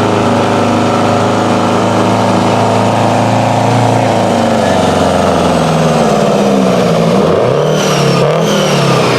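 Competition pulling truck's engine running hard under load, its pitch steady at first, then dipping and rising repeatedly in the second half. A brief high whistle falls in pitch twice near the end.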